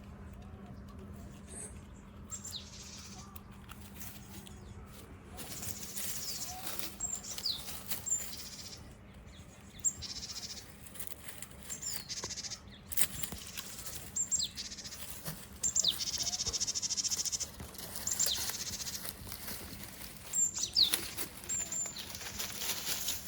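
Animal calls: short, high chirps that slide downward, repeated irregularly over a faint steady hum.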